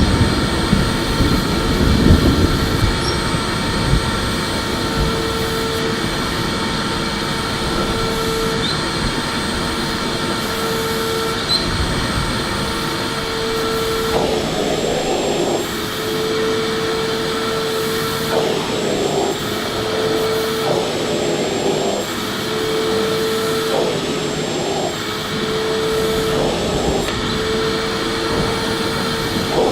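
Electric vacuum cleaner running continuously: a steady motor whine over a broad rush of air. About halfway through, the deep rumble drops away and the note wavers every second or two.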